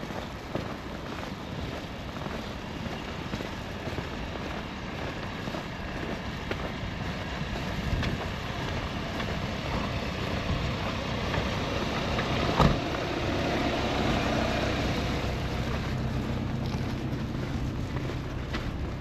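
A heavy vehicle's engine growing louder as it comes close in the second half, over a steady rush of wind and street noise. There is one sharp knock about two-thirds of the way in.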